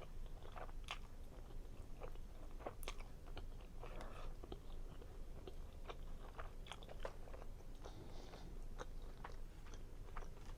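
A person chewing a mouthful of creamy seafood linguine Alfredo close to the microphone: soft, irregular wet mouth clicks and smacks.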